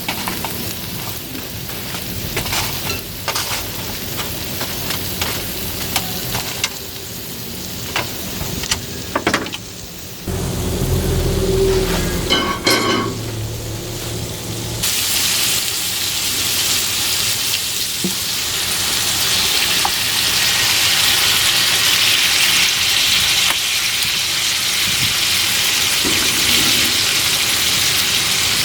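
Thick steak sizzling on a hot pan over a fire, with scattered sharp pops and crackles. About fifteen seconds in, the sizzle swells into a loud, even hiss that lasts to the end. A brief low rumble comes just before it.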